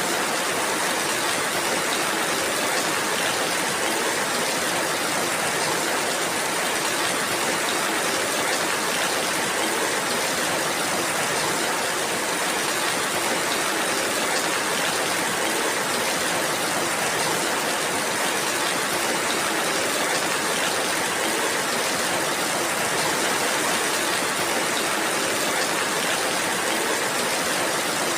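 Steady rainfall, a dense, even hiss of drops with no change in strength.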